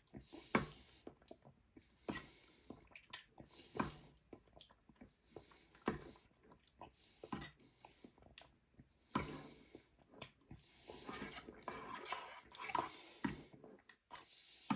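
Spoon clinking and scraping against a bowl while eating thick curd and honey, a scatter of short sharp clicks with soft wet eating sounds between them.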